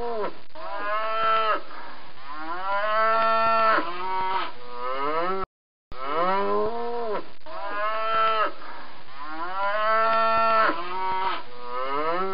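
Cows mooing: a run of several long, drawn-out moos, then a brief silence about halfway through, after which the same run of moos plays again.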